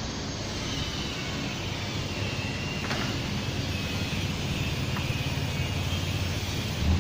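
A steady mechanical rumble with a faint high whine above it, and a sharp click about three seconds in.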